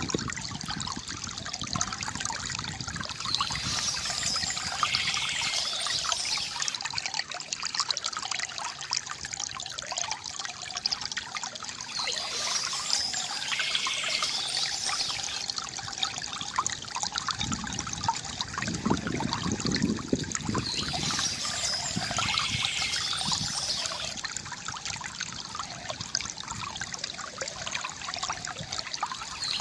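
Water trickling and gurgling steadily from a bamboo fountain spout. A brighter, higher patch comes back about every nine seconds, and there is a deeper swell of gurgling a little past the middle.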